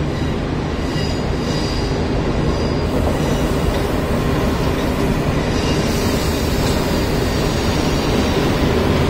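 Electric-hauled passenger trains rolling slowly through a station: a steady rumble of steel wheels on rails that grows slowly louder as an HXD1D electric locomotive approaches. A faint high wheel squeal comes in the first few seconds.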